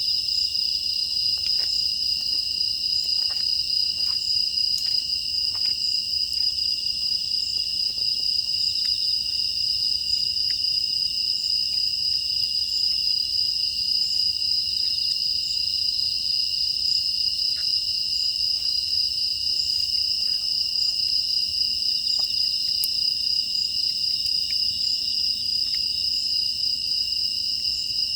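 Night chorus of crickets and other grass insects: a steady, unbroken high trill, with a few faint scattered crackles from a wood fire.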